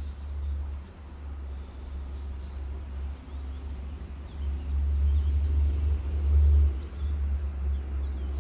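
Deep, low rumble of a truck, swelling louder about five to six and a half seconds in, with faint bird chirps above it.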